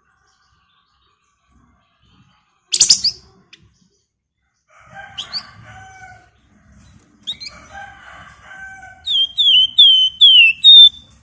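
Flamboyan (Javan fulvetta) singing in bursts: a sharp loud note, two chattering phrases, then a run of five loud slurred whistled notes near the end.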